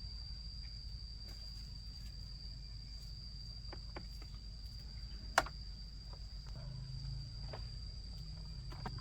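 Crickets trilling in one steady high note, over a low rumble, with a few faint clicks and one sharp click about five seconds in.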